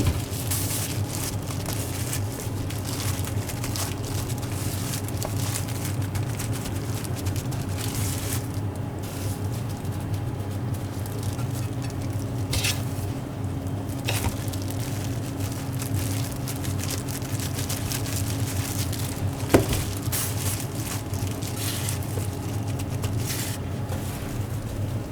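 Steady low hum of kitchen equipment under a continuous crackling hiss, with a single sharp knock about twenty seconds in.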